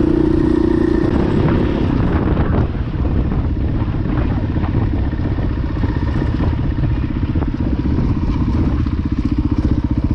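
Single-cylinder dual-sport dirt bike engine running under way. Its note drops about two and a half seconds in and settles into a steady, lower beat, with the pulsing most distinct near the end as the bike slows.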